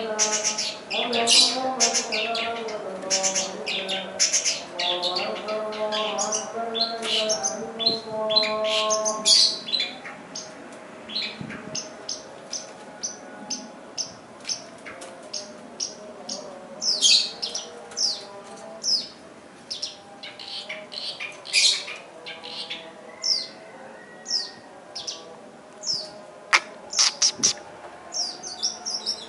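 Long-tailed shrikes (pentet/cendet) singing a rapid string of short, sharp chirps and trills, their song full of mimicked calls of other birds. For about the first ten seconds a lower pitched sound runs underneath; after that only scattered chirps remain.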